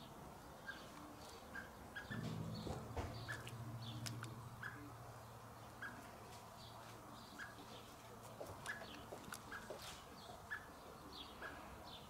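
A small bird calling in short, evenly repeated chirps, about two a second, with scattered sharp clicks as a cat chews a caught bird. A low droning hum comes in about two seconds in and fades away a few seconds later.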